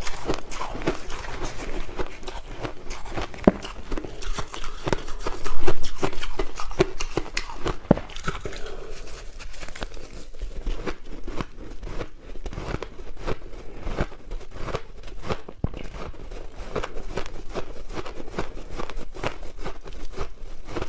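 Crushed ice being bitten and chewed close to the microphone: a dense, irregular crunching and crackling, with one loud bite about five and a half seconds in.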